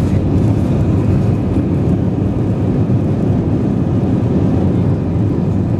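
Steady low rumble of a jet airliner heard from inside the passenger cabin: engine and airflow noise that holds even throughout.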